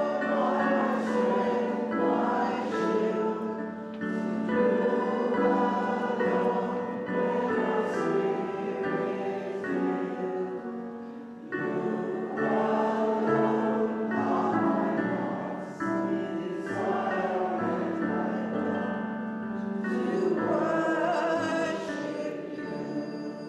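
A hymn sung by many voices together with instrumental accompaniment over a steady held low note. There is a short break between phrases about halfway through, and the final chord dies away at the end.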